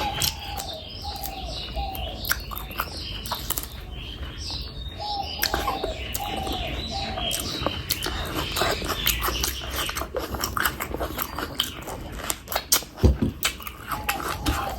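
Close-miked chewing and wet mouth clicks of someone eating fish curry with rice. A bird chirps in the background in three short runs of about four arched notes each.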